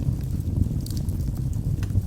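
Logs burning in a fireplace: a steady low rumble of the fire with a couple of sharp crackles from the burning wood.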